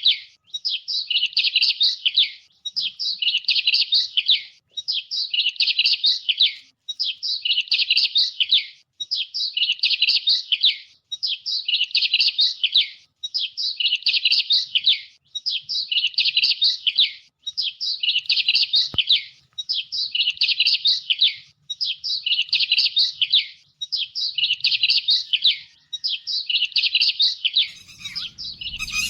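Songbird song, the same high-pitched warbling phrase of about two seconds repeated over and over with only brief pauses between. Just before the end the pattern breaks into different, harsher calls.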